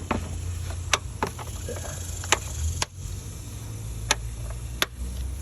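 About six sharp clicks and knocks at irregular intervals as plastic air-intake parts, hoses and clips are handled during reassembly in the engine bay, over a steady low hum.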